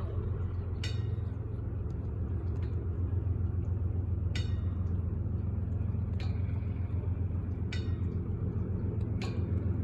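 Slow intermodal freight train rolling past close by: a steady low rumble of wheels on rail, with a sharp metallic clank every second and a half or so.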